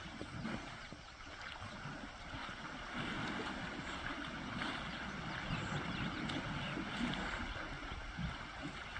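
Water sloshing and splashing irregularly as elephants move and bathe in a pond.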